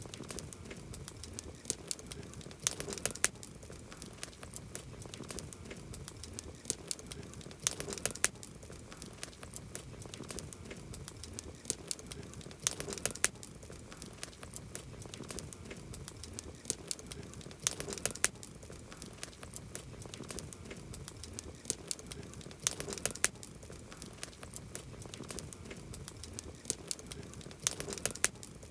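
Campfire wood crackling and popping: a steady stream of sharp snaps, with a denser, louder burst of crackling about every five seconds.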